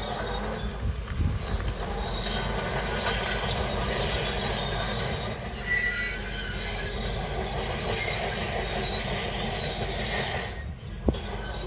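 Shantui crawler bulldozer working: the diesel engine runs steadily under the high squeal and clank of its steel tracks. Near the end the sound drops out briefly, followed by a single sharp knock.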